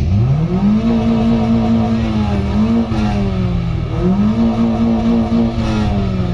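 Honda hatchback's four-cylinder engine revved hard through a loud exhaust. The pitch climbs steeply at the start, holds high and steady, sags briefly and climbs back several times.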